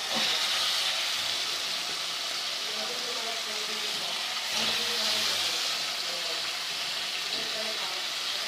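Sliced potatoes, wet from soaking water, sizzling in hot ghee and masala in a pan. The hiss swells just after the start and again about four and a half seconds in.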